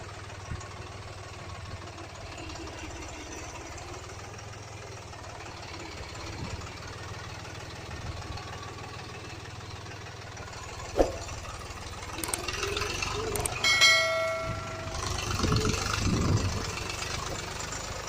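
Truck engine running with a steady low rumble. A sharp click comes about two-thirds of the way in, then a brief steady high tone, and the engine grows louder for a couple of seconds near the end.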